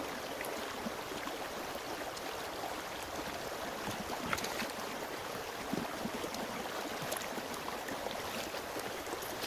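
Steady rush of flowing stream water, with a few faint clicks and taps.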